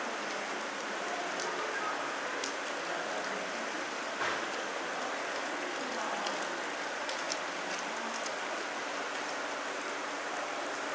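Steady rain falling on a paved street: an even hiss with scattered small drop taps, and one louder tap about four seconds in.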